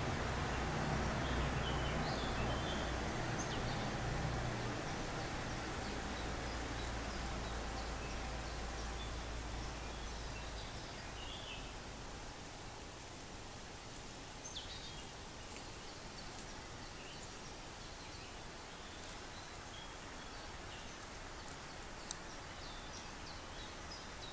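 Quiet outdoor background with faint, scattered short bird chirps. A steady low hum fades away about halfway through. There is an occasional small click.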